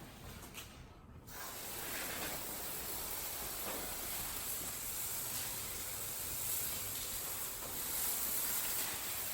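A steady spraying hiss that starts about a second in.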